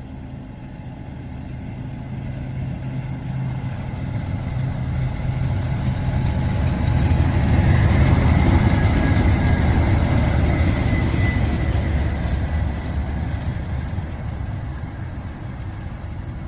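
Diesel locomotive engine running as a train passes, growing louder to a peak about halfway through and then fading, with a faint high whine near the loudest point.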